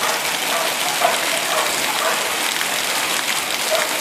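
Steady tropical rain, an even hiss of rain falling on surfaces, with a few faint short chirps scattered through it.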